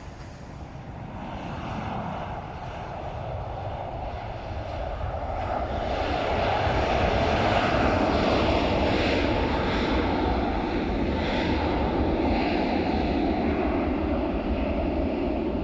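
Jet airliner engines passing close, a broad noise that grows louder over the first six seconds or so and then stays loud.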